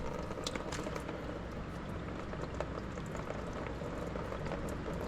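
Engine oil pouring and dripping into a drain pan: a steady liquid trickle with many small scattered drips.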